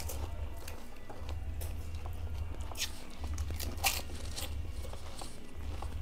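Crisp pani puri shells crunching as they are bitten and chewed, several sharp crunches with the loudest about four seconds in, over background music.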